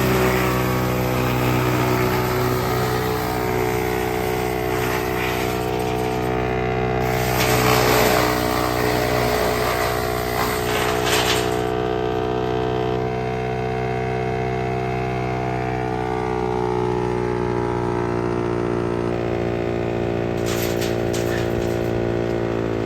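Wood chipper machine running with a steady engine-like drone. A louder rushing noise rises about seven seconds in and lasts around four seconds, and a few shorter bursts come near the end.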